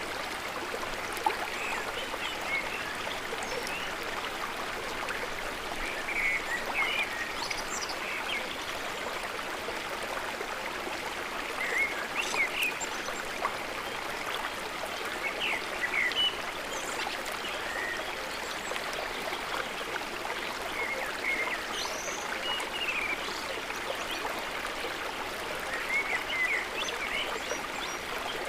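Water flowing steadily through a river barrage, a constant rushing with brief higher splashy sounds now and then.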